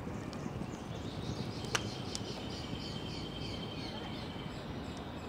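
Outdoor background noise with birds chirping in a quick high series, a sharp click nearly two seconds in, and a thin steady high tone for about three seconds after it.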